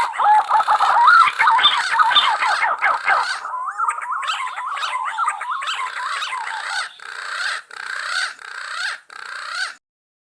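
Punai green pigeons calling: a flurry of overlapping, wavering whistles that glide up and down, then a run of short repeated whistled phrases with brief gaps. The sound cuts off abruptly near the end.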